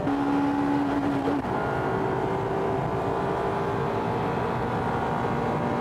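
Honda Type R four-cylinder VTEC engines running hard, heard from inside the cabin at a steady pitch. The note changes to a different, higher set of tones about a second and a half in.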